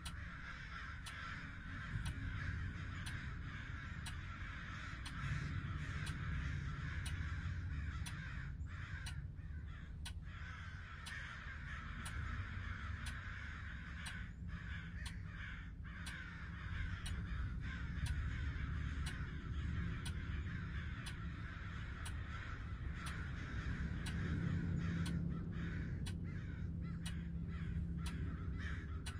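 Crows cawing over a low steady rumble, with faint clicks at an even pace.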